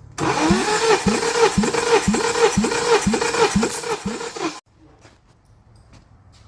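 Honda K24A1 2.4L inline-four engine cranked over by its starter motor for a compression test, with an even pulse about twice a second as the engine comes up on compression. It starts just after the beginning and cuts off suddenly after about four and a half seconds.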